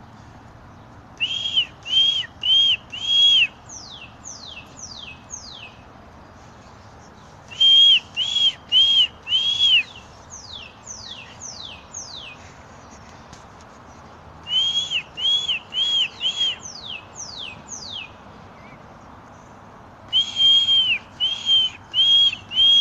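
A songbird's clear whistled song, repeated four times. Each phrase has four short arched notes, then a run of quick notes that slide sharply down in pitch.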